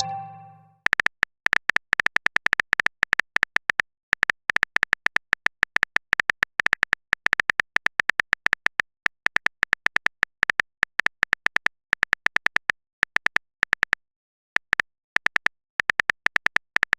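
Typing sound effect: a long, rapid, irregular run of short clicks with a few brief pauses, as of a message being keyed in. A fading tone from a chat notification trails off in the first second.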